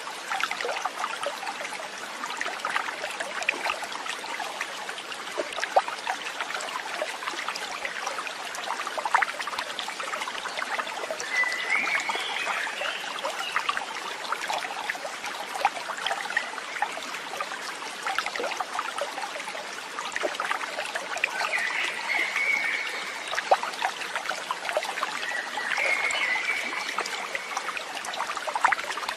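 Shallow stream running and trickling steadily over stones, with a bird calling briefly three times.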